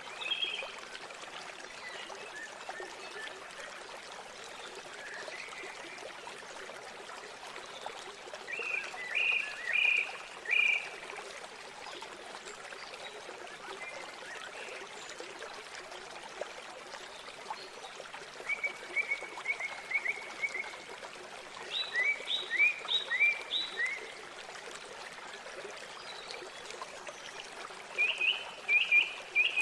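River water flowing steadily, with about four bursts of rapid, repeated chirping calls from birds.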